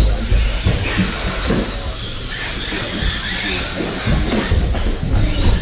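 Electric RC buggies running on a track. Their brushless motors give a high whine that rises and falls with the throttle, over a steady hiss of tyre noise and scattered low thumps.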